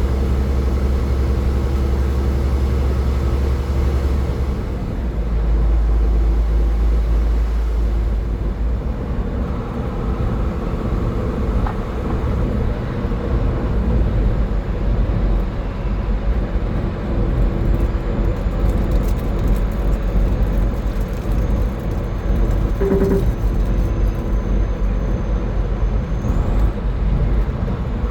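A car driving on a highway: steady engine hum and tyre and road rumble. The deep rumble shifts in pitch about four and a half seconds in.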